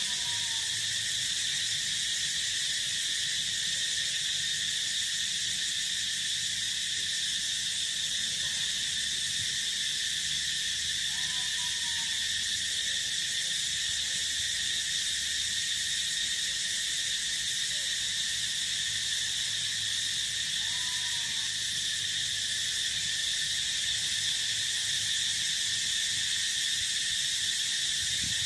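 Steady, shrill chorus of crickets and other field insects, over a low steady hum, with three short arched calls from another animal, roughly ten seconds apart.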